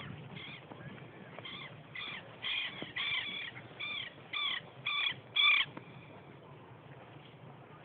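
A bird giving a series of about ten short, repeated calls in quick succession, growing louder, the loudest about five and a half seconds in, over a steady low background noise.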